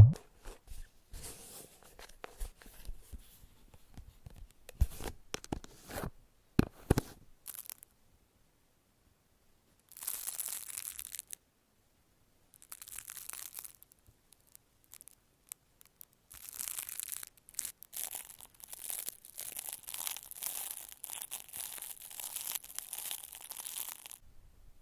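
Close-miked crinkling and tearing of a crinkly wrapping material, handled in several bursts, with scattered taps in the first several seconds and a long stretch of dense crinkling near the end.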